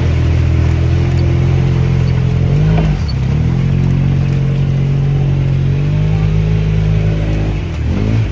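UTV (side-by-side) engine running under way, its revs dipping and climbing back about three seconds in and again near the end as the throttle is eased off and reapplied.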